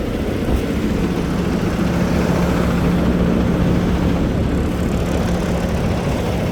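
A heavy truck engine idling steadily, a low drone with a held hum.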